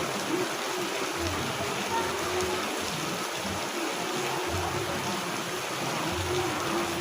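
Steady rain falling, an even hiss of drops, with soft music playing underneath.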